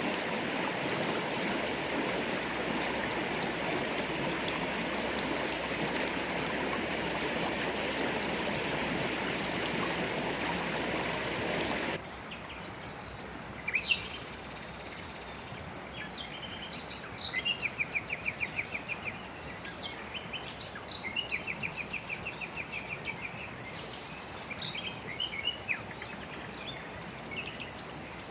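The Gévora river flowing, a steady rushing of water that cuts off suddenly about twelve seconds in. Quieter surroundings follow, where several songbirds sing in rapid trills and quick repeated chirps.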